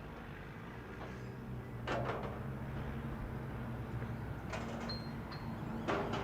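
A car engine running with a steady low hum, interrupted three times by short sharp clicks or knocks.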